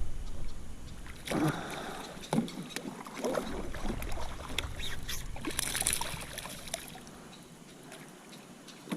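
Scattered knocks, clicks and small water sounds around a fishing kayak, with a low rumble in the first second or so, fading quieter near the end.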